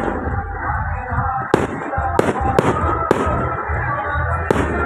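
Firework bursts in the sky: about five sharp bangs, several close together in the middle of the stretch, over continuous background music.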